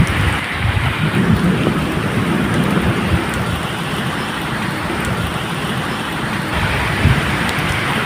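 Steady medium rain with low, rolling thunder rumbling underneath, swelling near the start and again near the end.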